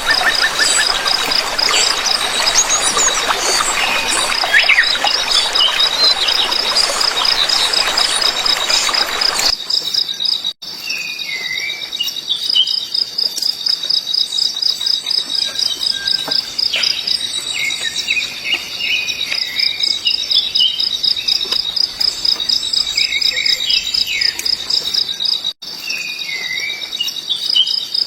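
A steady, evenly pulsing high insect trill runs throughout. A small bird gives short chirping calls now and then. For the first third a loud hiss lies over everything and then cuts off abruptly.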